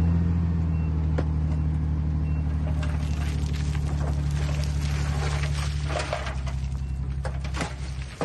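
Heavy diesel engine of a dump truck or bulldozer running steadily, with irregular scraping and clanking from about three seconds in.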